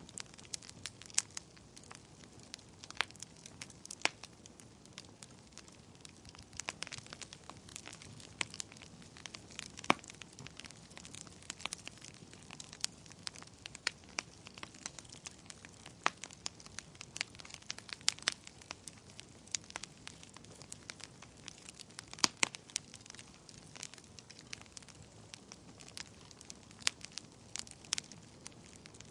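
Wood fire burning in a fireplace, crackling with sharp irregular pops over a soft steady hiss of the flames.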